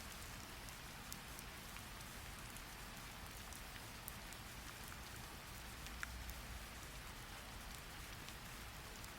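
Steady rain falling, an even hiss with a few light ticks of drops, the clearest about four and six seconds in.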